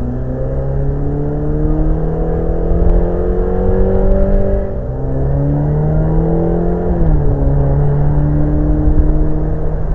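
Ferrari California's V8 engine pulling under acceleration with the roof down, its pitch climbing and then dropping at upshifts about five and seven seconds in, then holding steady. A low wind rumble on the microphone runs under it.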